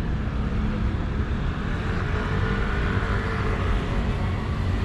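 Street traffic: a motor vehicle's engine running close by over a steady low rumble, swelling briefly a couple of seconds in.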